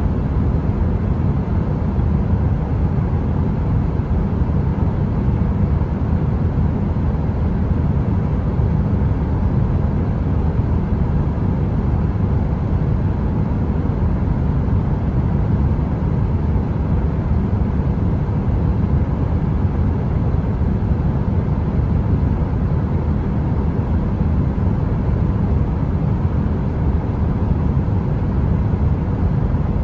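Steady deep rushing noise of a running heater, even throughout and weighted to the low end, with a faint steady hum; no fire crackle.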